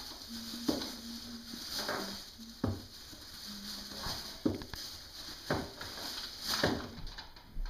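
Pileated woodpecker pecking into wood: single heavy strikes at an uneven pace, roughly one a second.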